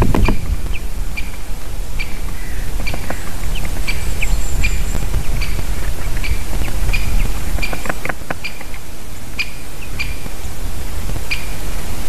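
A small bird repeating a short, sharp call about one to two times a second, over a steady low rumble.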